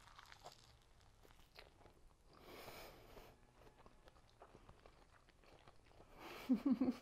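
Someone biting into and chewing an air-fried tofu-skin (yuba) drumstick, with faint crunchy clicks from the crisp skin. A breathy rush of air comes about halfway, and a short hummed voice sound near the end.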